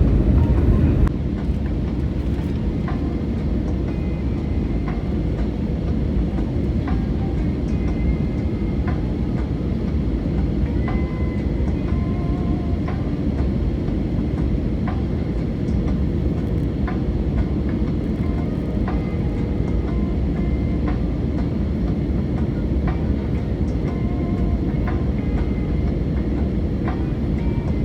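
Airliner cabin noise: a steady, loud low rumble of engines and airflow, with light rattles and ticks of the cabin fittings.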